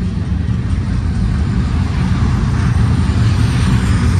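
Diesel freight locomotives running as a train passes: a steady low engine drone with rolling noise, growing a little louder in the second half.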